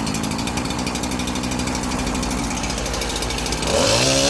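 Fire department roof saw's small two-stroke petrol engine running at idle with a rapid steady pulse, then revving up with a rising pitch near the end.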